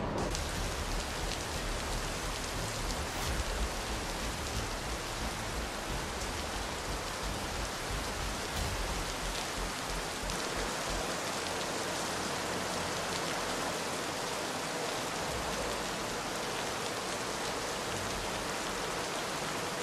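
Heavy rain pouring down, a dense, steady hiss of rain on pavement and floodwater.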